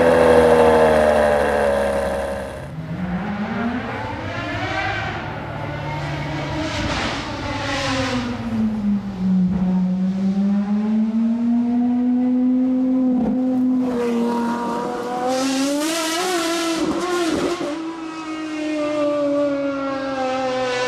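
Ferrari 599 GTO's V12 revved at a standstill, its revs falling away, cut off after about two and a half seconds. Then a different, unseen supercar engine revs up and down several times, holding a long steady note in the middle, with a harsher, noisier burst about sixteen seconds in.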